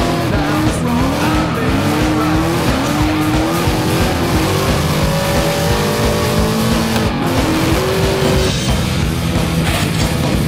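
Engines revving up and down with tyres squealing and skidding during drifting, over background music.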